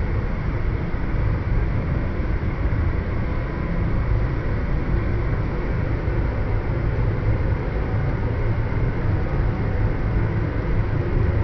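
Steady, loud low rumble of a moving train.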